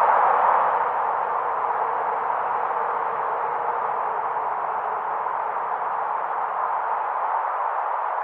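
Wind blowing in a steady rush with a faint whistling edge, easing slightly about half a second in.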